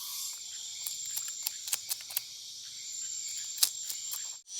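Rainforest ambience: a steady high-pitched insect drone with scattered sharp clicks and knocks of handling, broken by a sudden brief dropout near the end.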